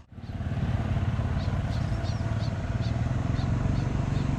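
Steady low rumble of a vehicle running, with faint high chirps repeating two or three times a second from about a second and a half in.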